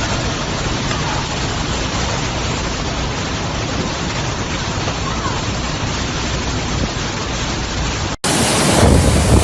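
Steady rushing roar of a storm's rain and wind. About eight seconds in it cuts abruptly to a louder, fuller stretch of the same roar.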